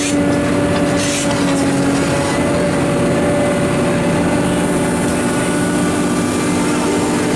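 Heavy diesel truck engine running steadily at a held speed, with a constant hum.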